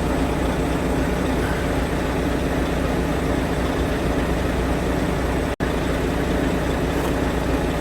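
Steady low mechanical noise of a running engine, unchanging, with one instant's dropout a little past halfway.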